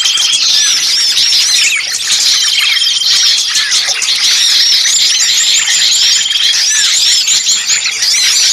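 A noisy, dense chorus of many small songbirds calling at once: overlapping high chirps and arched whistled notes, with a level trill that recurs several times and lasts about a second each time. This is the agitated chorus of small birds used as a bird-trapping lure call.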